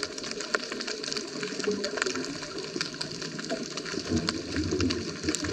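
Underwater sound picked up through a diving camera's housing: a dense, irregular crackle of clicks over a wobbling low bubbling. A deeper bubbling rumble comes in about four seconds in, typical of a scuba diver's exhaled air.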